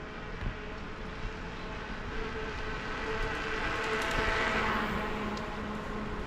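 A motor vehicle passing: engine hum with steady tones over a wash of noise, swelling to a peak about four seconds in and then easing off.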